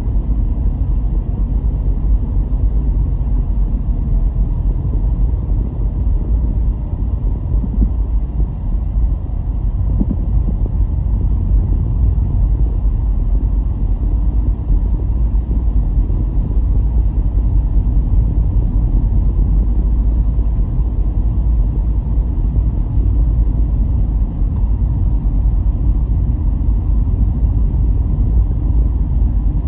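Car driving at a steady pace: a continuous low rumble of engine and tyre noise on the road.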